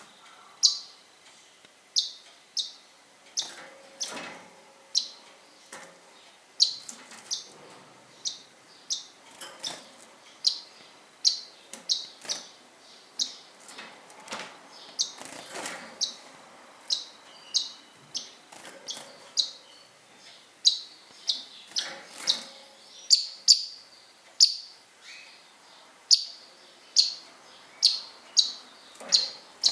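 Pet birds chirping: short high chirps repeated about one to two times a second, with a few soft rustles in between.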